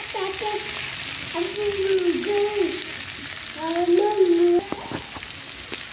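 Diced sweet potato, sausage and onion sizzling as they sauté in a nonstick pan, stirred with a silicone spatula. A few sharp taps of the spatula on the pan come near the end, and a voice sounds briefly without words over the sizzle.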